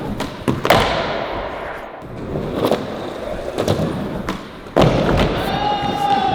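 Skateboard on flat ground: sharp pops and knocks of the deck and wheels hitting the ground during a trick attempt, with the board rolling in between and a heavy thud of a landing about three quarters of the way in. A drawn-out falling tone starts near the end.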